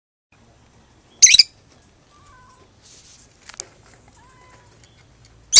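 Pet lovebird giving two short, shrill shrieks about four seconds apart, with faint soft whistles and light clicks between them.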